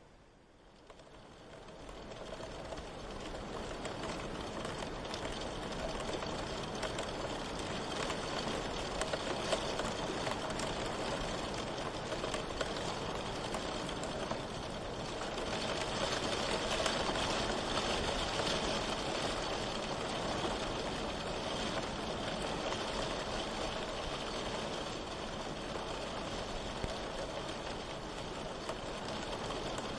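Steady rain falling, an even hiss with no thunder, fading in over the first two seconds.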